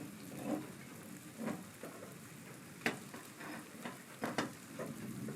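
Linseed oil sizzling on a hot steel lion's-claw meat flipper held over a gas stove flame, with a few sharp pops. The oil is smoking as it polymerizes into a seasoning layer.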